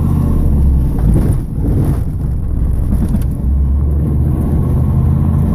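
1987 Pontiac Trans Am's 305 LB9 V8 running under load on the road, heard from inside the cabin, the engine not yet warmed up after a cold start. The low, steady drone eases briefly twice, about a second and a half in and again around three seconds.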